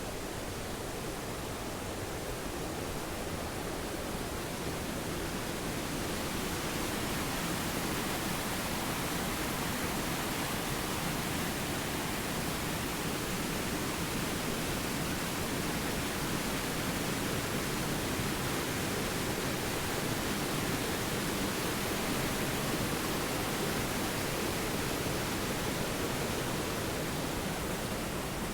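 Water rushing down a tall waterfall: a steady, even rush of noise that grows a little louder and brighter about six seconds in.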